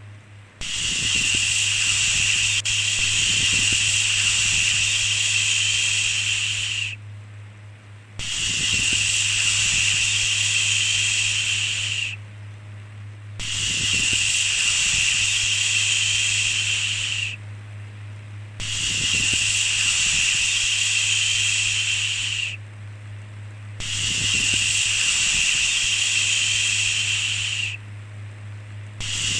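A long 'shhh' shushing sound repeated over and over, each hiss lasting about four seconds with a short pause of about a second between, over a steady low hum.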